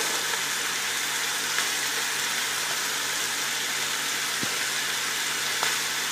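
Frozen mixed vegetables sizzling steadily in hot oil in a cooking pot, with a couple of faint clicks.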